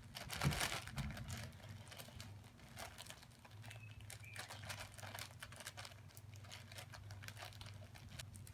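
Faint crinkling and scattered light taps, a little louder about half a second in, over a low steady hum.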